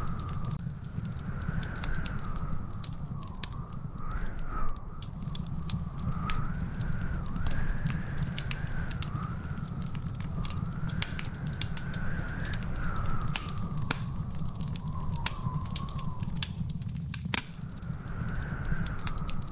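Wood fire crackling, with frequent sharp pops over a steady low rumble and a thin, wavering high whistle.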